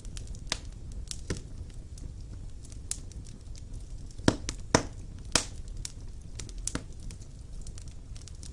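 Wood fire burning in a stone fireplace, crackling: a steady low rumble of flames with irregular sharp pops, three louder pops close together about halfway through.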